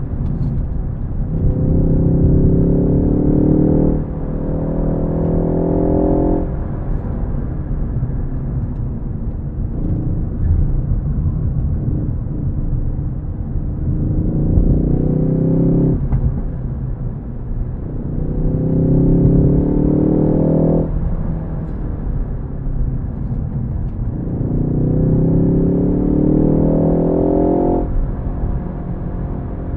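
Ford Focus ST's engine accelerating hard four times, its note rising in pitch each time and cutting off sharply as the throttle is lifted, with a gear change about four seconds in. A steady low rumble of road and tyre noise runs underneath.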